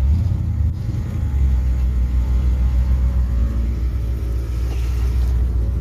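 Carbureted 1951 Ford shoebox's engine running steadily seconds after a cold start, a low purring rumble that dips slightly about a second in, then settles.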